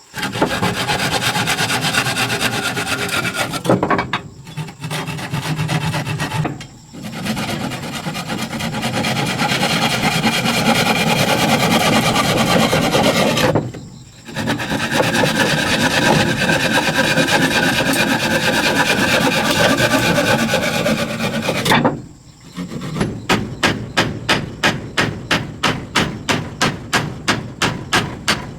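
Abrasive scrubbing on a surface, like restoration sanding: long unbroken passes with a few short pauses, then quick back-and-forth strokes, about three a second, over the last few seconds.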